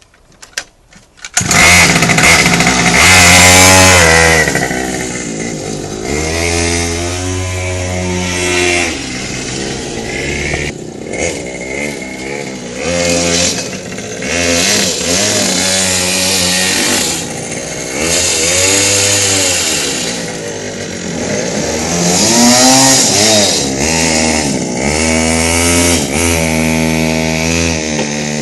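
Minibike's small single-cylinder engine comes in suddenly about a second in, then revs up and down over and over, its pitch rising and falling.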